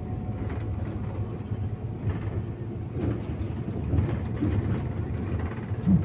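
Interior running noise of a MAZ-215 articulated city bus: a steady low engine and road rumble with scattered knocks and rattles, and one sharper thump near the end.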